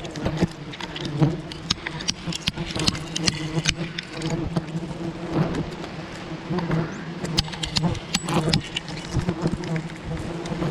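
Bees buzzing steadily as a swarm, a constant low hum, with scattered clicks and knocks over it.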